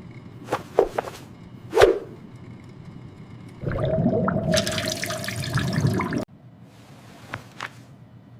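Cartoon toilet-flush sound effect: a loud rushing of water for about two and a half seconds that cuts off suddenly, after a few short swishes and hits.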